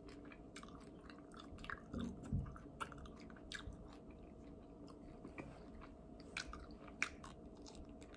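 Faint, irregular wet mouth clicks and smacks of a person chewing barbecue chicken wings up close, with a bite into another wing near the end.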